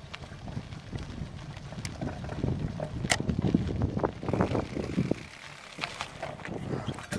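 Bicycle rattling and knocking over a rough trail, with irregular sharp clicks over an uneven rumble that grows busier about two seconds in.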